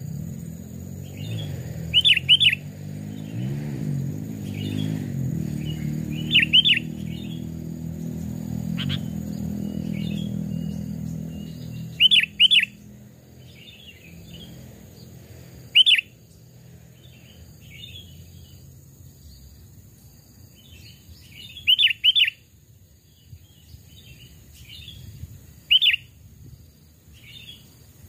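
Sooty-headed bulbuls calling: loud, short, sharp notes, often in quick pairs, repeated every few seconds, with softer chattering notes between. A low humming drone runs underneath during the first half and fades out.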